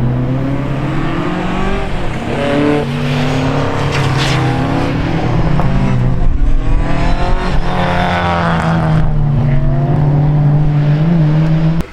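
Rally car engine at full throttle, its pitch climbing and dropping again and again as it revs through the gears and lifts for corners, with tyre noise on the stage.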